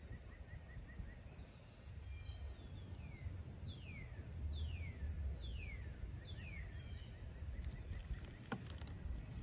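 A bird calling: a quick run of short chirps near the start, then four clear whistled notes, each sliding down in pitch, from about three and a half to seven seconds in, over a low rumble. A single sharp click about eight and a half seconds in.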